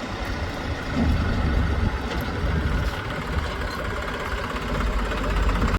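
A heavy machine's diesel engine running steadily at low revs.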